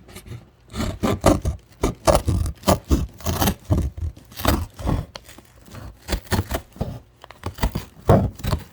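Cardboard box being cut and torn by hand: a quick, irregular run of scraping and ripping strokes, with a short pause near the end.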